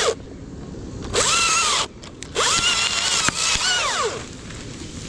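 Battery-powered chainsaw revved in short bursts while cutting a limb: three times its whine rises, holds and falls away as the motor spins down, the last burst about two seconds long.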